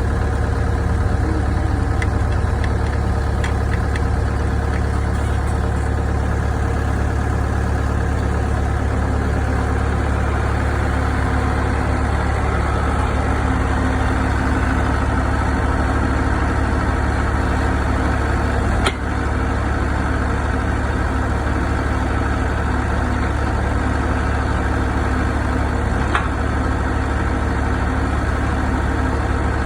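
Excavator's diesel engine running at a steady speed, a constant drone with a strong low hum. Two brief sharp clicks, one about two-thirds of the way through and one near the end.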